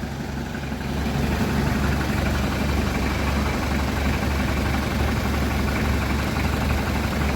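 A vehicle engine running steadily, with a low pulsing hum under constant noise.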